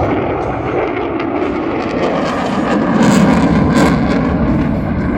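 Jet noise of an F-22 Raptor's twin turbofan engines during a fast low pass, a loud steady roar that swells to its loudest about three to four seconds in.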